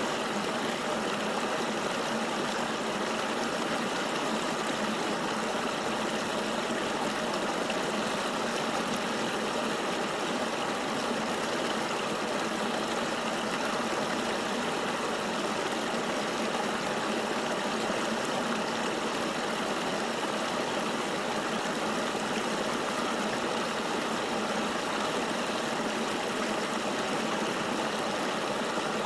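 River water flowing in a steady, even rush with no separate splashes or drips.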